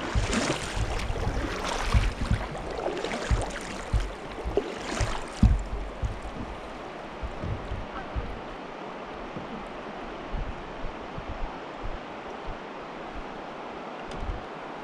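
Wind buffeting the microphone over moving river water, in gusts with low thumps for the first six seconds or so, then easing to a steadier hiss of water and wind.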